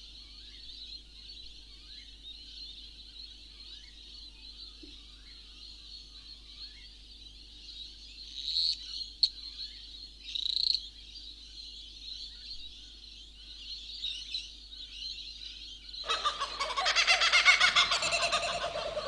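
Birds chirping and calling over a steady high-pitched drone, with two sharper calls about halfway through. Near the end comes a loud, harsh animal call lasting about three seconds.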